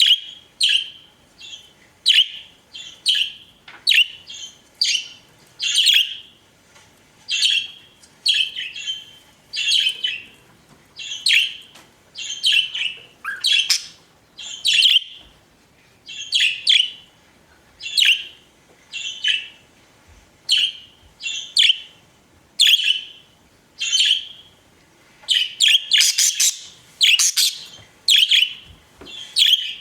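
Pet budgerigars chirping in short, sharp repeated calls, about one or two a second, coming thicker and faster near the end.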